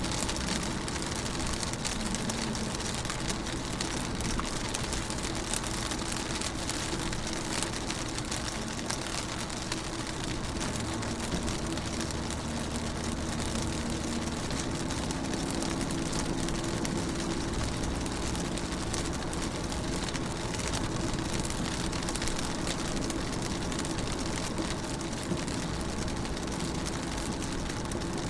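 Rain pattering on a car's windows and body, heard from inside the car as a steady patter of fine drops. A steady low hum runs underneath.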